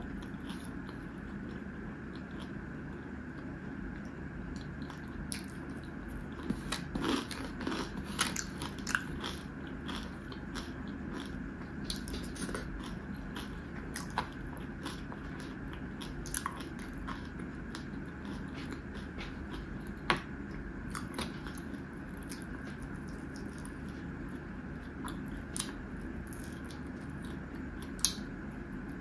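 Close-miked chewing and mouth sounds as pieces of fried catla fish are eaten, with scattered short sharp clicks and crunches that come thickest several seconds in, over a steady low background hum.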